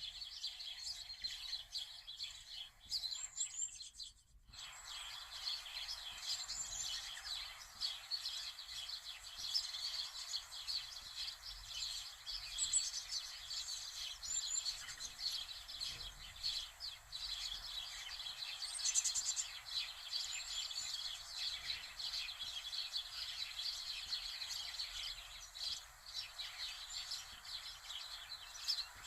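Many birds chirping and calling over one another in a dense, continuous chorus, with a brief cut to silence about four seconds in.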